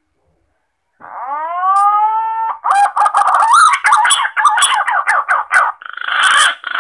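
Green pigeon (punai) lure call: a rising whistled note about a second in, then a fast run of warbling notes, turning into rougher, harsher bursts near the end.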